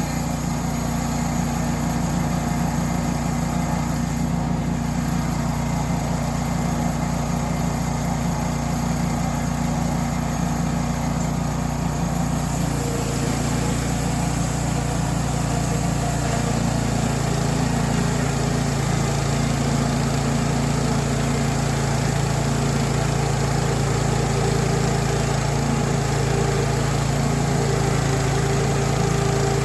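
Small petrol engine of a portable bandsaw mill running steadily while the mill saws Australian stringybark hardwood. The engine note changes about twelve seconds in.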